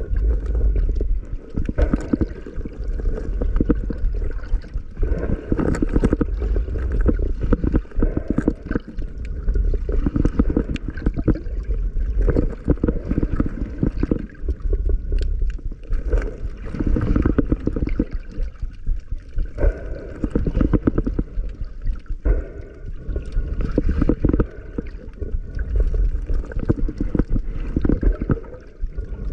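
Underwater water noise from a diving camera: a continuous low rush of moving water with dense, irregular clicks and gurgling.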